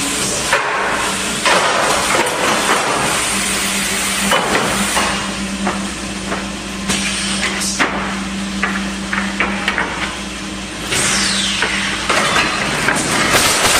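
2019 Woodpecker Junior pallet nailing machine running: a steady machine hum under many sharp, irregular nail-gun shots and clanks, with a brief falling whine about eleven seconds in.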